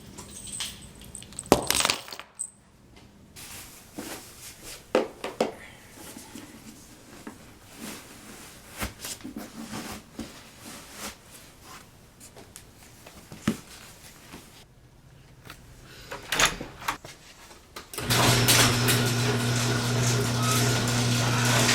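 Dishes and utensils clinking and knocking in scattered strokes, then about 18 seconds in a loud steady hum with a low buzz starts suddenly.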